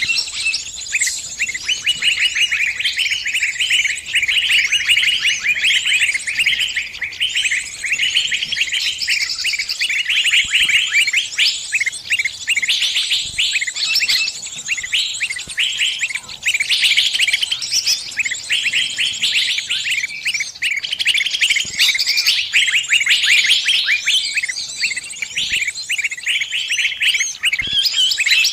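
Bird distress calls: a continuous stream of fast, high, shrill chirps without pause, the calls of a bird caught and pinched, calling for help.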